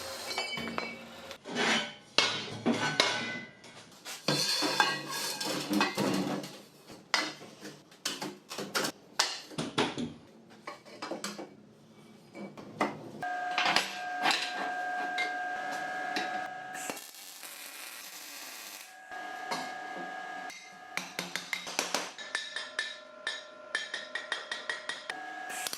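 Hand-tool work on metal: a run of knocks and clatter, then from about halfway through repeated short scraping strokes with a steady metallic ring.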